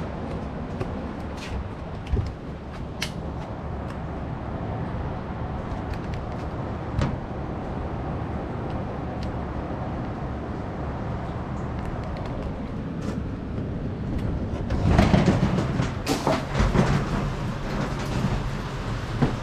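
Typhoon rain and wind on an old wooden house: a steady rushing roar with scattered sharp ticks, which swells into a louder, rougher surge with knocks about fifteen seconds in.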